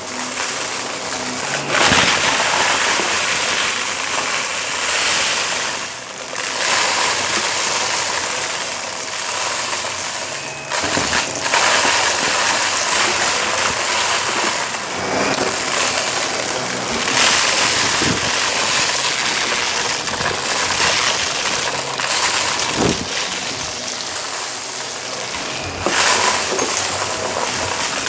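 Shark vacuum running on carpet: a steady motor whine under a loud rush of air, with crackling and crunching as grit is sucked up. The level swells and dips with the quick push-and-pull strokes, with a few sharp clicks along the way.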